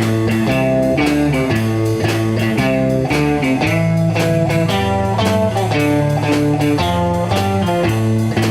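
Blues-rock band playing an instrumental passage: electric guitar over low bass notes, with a steady beat.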